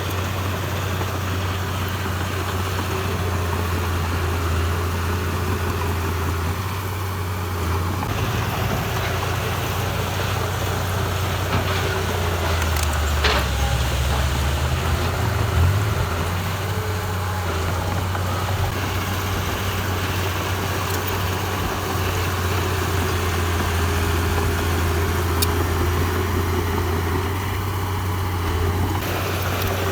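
Heavy construction machine's diesel engine running steadily with a low drone. Two brief knocks are heard about halfway through.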